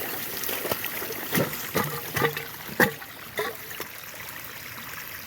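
Water trickling and splashing as a submerged eel trap is handled in flooded water, with a few sharp splashes or knocks in the first three seconds, then a steady trickle.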